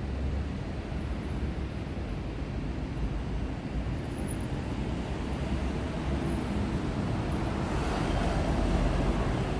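Steady road and engine rumble heard from inside a moving car, swelling a little near the end.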